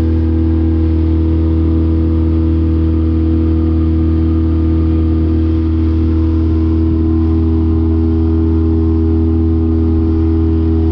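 A skiff's outboard motor running steadily at cruising speed. It is a loud, even drone with a constant pitch.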